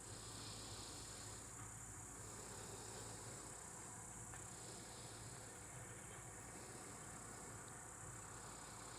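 Faint chorus of evening crickets: a continuous high trill, with a second, lower trill swelling and fading in slow pulses every second or two.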